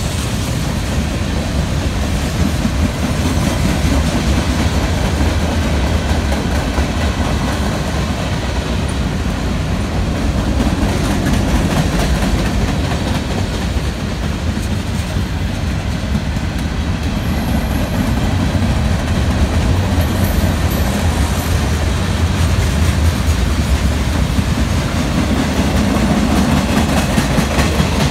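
Freight train cars rolling past: a steady rumble and rattle of steel wheels on the rails as gondolas, covered hoppers and a tank car go by.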